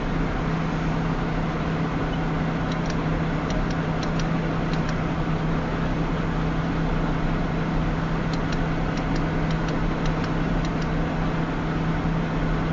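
Steady vehicle running noise: a constant low rumble with a steady hum, and scattered faint ticks at about three, four and between eight and eleven seconds.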